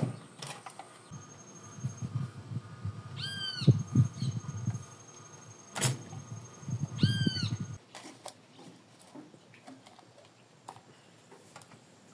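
Two short arching bird calls about three and a half seconds apart, over a low rumble of wind on the microphone, with a single sharp click about six seconds in.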